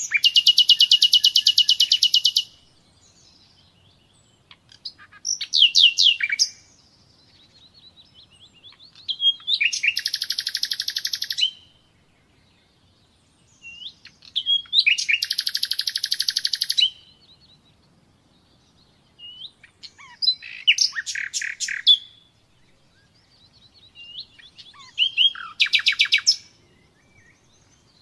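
Common nightingale singing: six loud phrases of rapid repeated notes, each lasting one and a half to two and a half seconds, with pauses of a few seconds between them and soft short whistles in the gaps.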